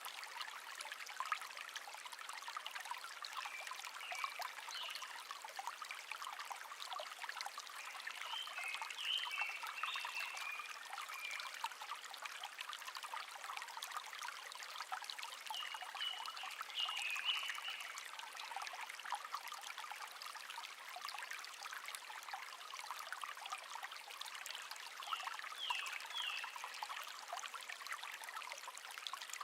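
Shallow stream babbling and trickling steadily over stones, with a songbird chirping in short phrases now and then, about four times.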